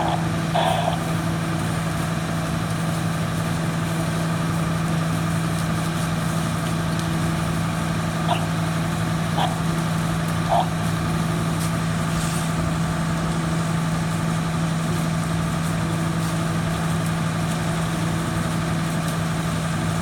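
Fire engine running steadily with an even low hum. Three short beeps, about a second apart, come near the middle.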